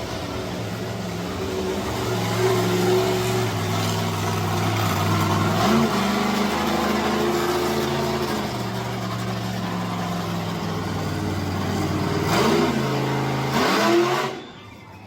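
Monster truck engine running and revving, its pitch rising in short blips three times, then dropping away sharply near the end.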